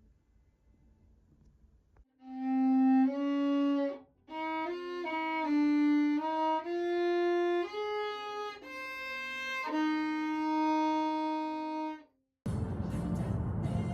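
Background music: a solo violin plays a slow melody of held notes. It comes in after about two seconds of near silence and stops shortly before the end, when a louder, noisier sound cuts in abruptly.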